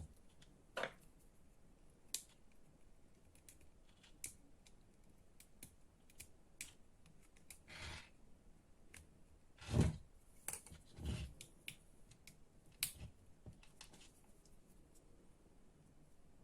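Scattered light clicks and taps of small parts being handled at a workbench, with two or three duller knocks about ten seconds in.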